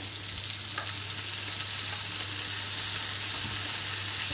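Tomato-and-pea masala with freshly added mashed eggplant frying in a steel kadhai, sizzling steadily and growing a little louder; the masala has cooked until its oil separates. One faint tick about a second in.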